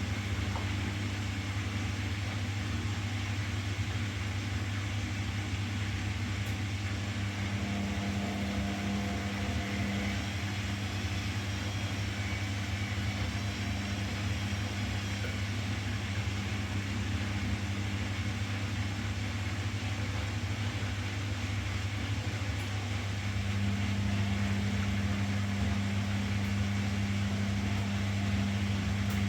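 Washing machine running with a steady motor hum. The hum grows slightly louder about three-quarters of the way through.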